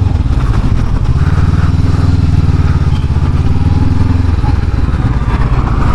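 Honda CB500X's 471 cc parallel-twin engine running while the motorcycle is ridden, the engine note holding steady and then easing off about four seconds in.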